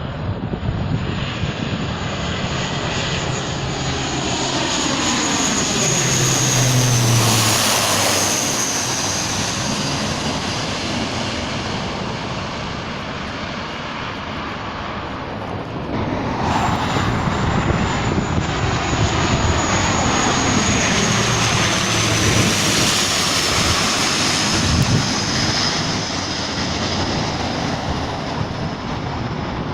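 Two turboprop airliners passing low overhead on final approach, one after the other: engine and propeller noise with a high whine that slowly falls in pitch as each goes by. The second pass starts abruptly about halfway through.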